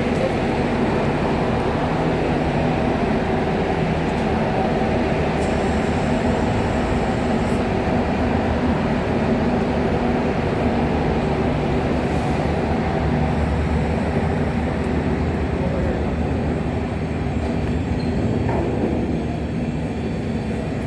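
Steady low rumble and hum inside a moving passenger vehicle, with faint chatter beneath it.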